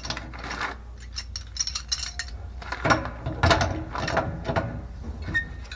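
Hand tools clicking and scraping on brass pipe unions in several short bursts, as the water pump's pipework is fitted and tightened.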